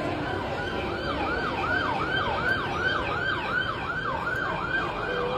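Emergency vehicle siren in a fast yelp, its pitch sweeping up and down about two to three times a second, starting about a second in.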